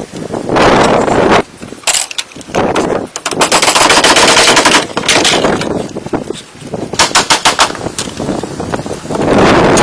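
Several bursts of rapid, repeated knocks, like a fast hammering tool working on wood.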